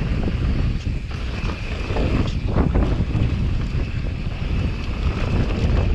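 Wind buffeting the microphone: a continuous, uneven low rumble with a hiss above it.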